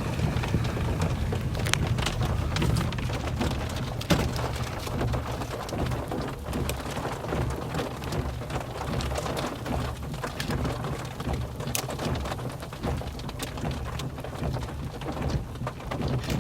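Rain striking the vehicle's roof and windows in many scattered hits, heard from inside the cabin, over a steady low rumble.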